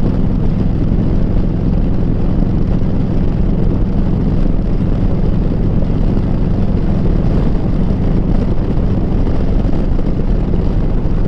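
Harley-Davidson V-twin through a Rinehart exhaust running at a steady cruise, an even low drone that holds without revving up or down.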